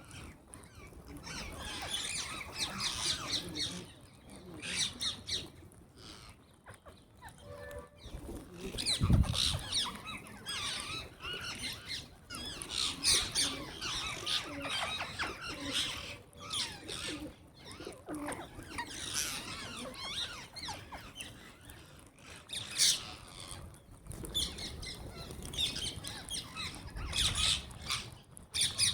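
A flock of parrots squawking and chattering, many harsh calls overlapping, with a single low thump about nine seconds in.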